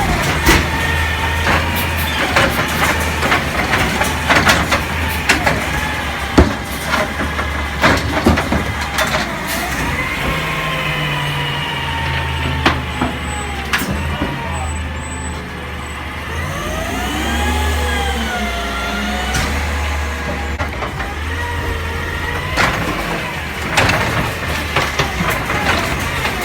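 Garbage truck working: its diesel engine runs steadily under repeated metallic clanks and knocks, and a whine rises and falls in pitch for several seconds midway.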